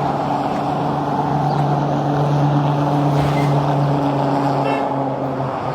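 Steady machine hum with a constant pitch, from an engine or electric motor running without any change in speed.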